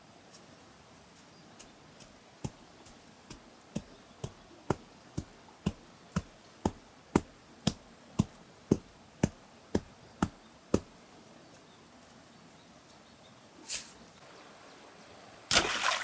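A run of about seventeen sharp strikes, roughly two a second, that grow louder and then stop suddenly. A short noisy burst follows near the end.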